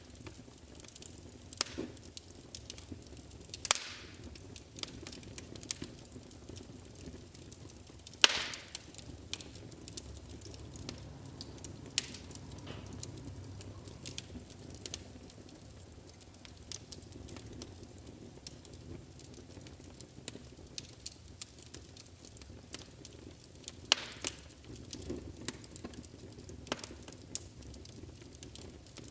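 Wood fire burning in a fireplace: a low, steady rumble of flames with irregular sharp crackles and pops, the loudest about 4, 8 and 24 seconds in.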